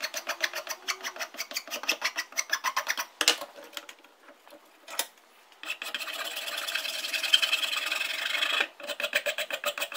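Rapid rubbing strokes, about seven or eight a second, as in hand filing or sanding during the axe's restoration. The strokes pause for a couple of seconds with a couple of sharp knocks, then give way to a few seconds of steady scraping before the quick strokes resume near the end.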